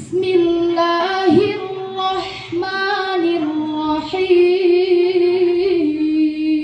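A single high voice reciting the Qur'an in a melodic chant, holding long drawn-out vowels with wavering ornaments. The pitch dips sharply just over a second in and steps down lower near the end.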